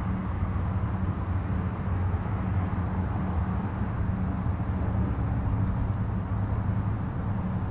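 Distant highway traffic: a steady, continuous low rumble of many vehicles' engines and tyres blended together, with no single car standing out.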